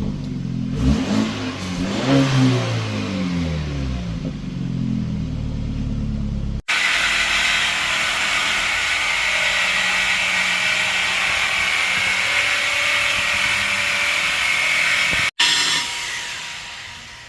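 BMW N26 2.0-litre turbocharged four-cylinder on its stock exhaust, resonator still fitted, being revved, its pitch rising and falling several times. About six and a half seconds in the sound cuts abruptly to a steady rushing noise.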